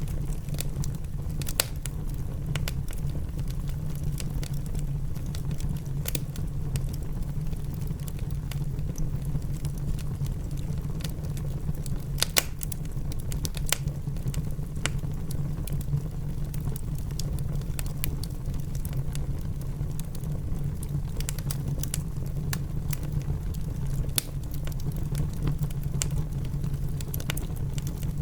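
Wood fire crackling in a fireplace, with scattered sharp pops, over a steady low rush of rain.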